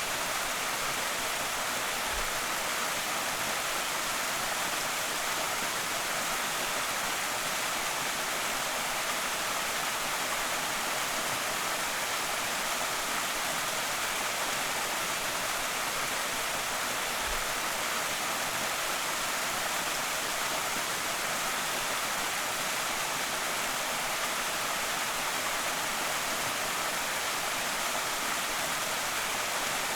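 Creek waterfall: a steady, unbroken rush of falling water with no changes in level.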